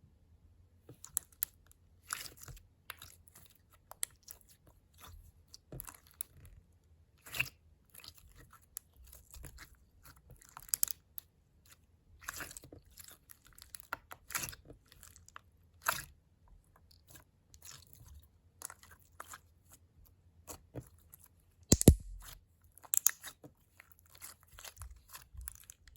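Slime being squished and worked by hand, giving irregular crackling clicks and small pops, with a louder pop about 22 seconds in.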